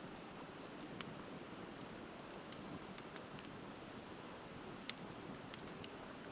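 Wood bonfire crackling, with a few sharp pops about one, three and five seconds in, over the steady rush of a river.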